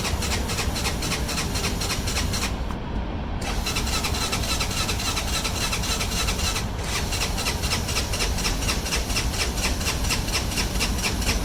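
An ATV's electric starter cranking a cold engine in three long bursts with short pauses between them, making a fast, even chugging. The engine is on choke, applied by pulling the bare choke cable, and it does not catch.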